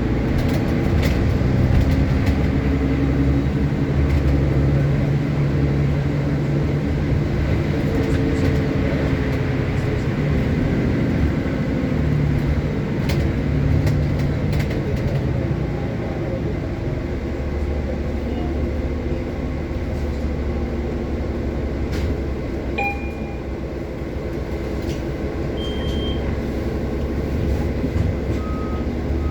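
Rumble of a moving transit bus heard from inside, its drive drone shifting in pitch as it speeds up and slows, with occasional rattles and a few short beeps near the end.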